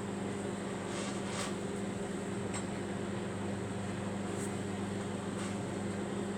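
Microwave oven running with a steady hum while it cooks a mug cake, with a few faint ticks.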